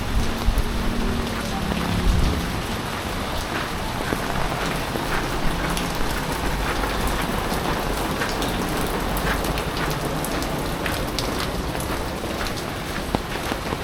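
Heavy rain falling steadily, with many sharp drop ticks on a hard surface. A low rumble dies away in the first couple of seconds.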